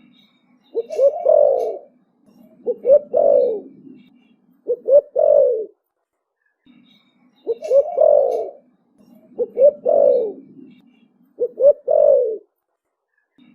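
Young spotted dove cooing in the 'thổ bầu' style: six loud coo phrases about two seconds apart, with a longer pause midway, and soft low murmurs between the phrases.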